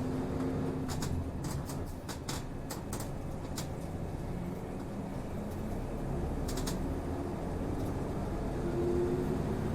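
Inside a city route bus on the move: a steady engine drone with road noise, and a few sharp clicks and rattles from the cabin.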